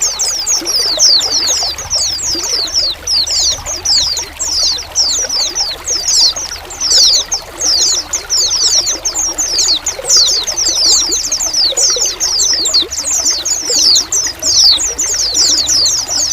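A flock of white-eyes (pleci) calling together: many short, high-pitched calls, each sliding downward, several a second and overlapping without a break. Trickling water runs steadily beneath them.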